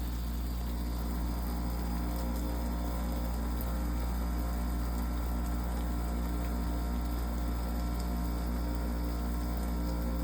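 Steady rain falling, over a low steady hum.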